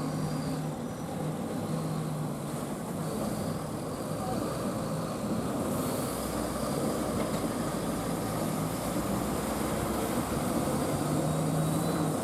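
A loaded tipper truck's diesel engine running steadily under load, a low engine note over heavy rumbling, a little louder near the end.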